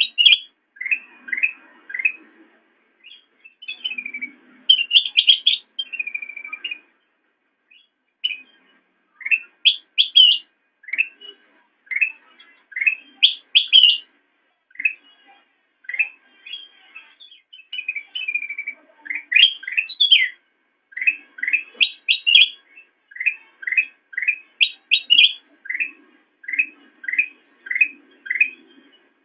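Kutilang emas bulbul singing: rapid runs of short sharp chirps and quick rising whistled notes, repeated in phrases a second or two long with brief pauses between them.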